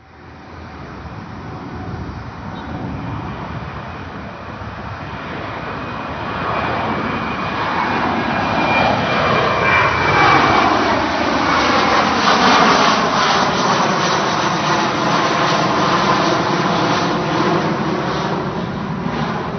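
Jet airliner passing low overhead at full power: a rising engine roar that peaks about halfway and stays loud, with a sweeping, falling whoosh as it goes over and a thin high whine in the first half.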